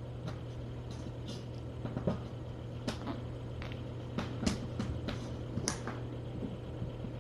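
Scattered light clicks and taps from a squirming kitten being handled on a weighing scale, over a steady low hum.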